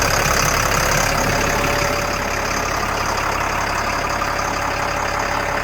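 Turbocharged, intercooled diesel engine of an M1078A1 LMTV military truck idling steadily, with a steady high whine over it. The engine gets slightly quieter about two seconds in.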